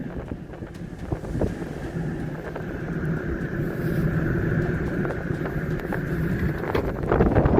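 A motor vehicle running with a steady low drone and road or wind noise, growing rougher near the end as wind buffets the microphone.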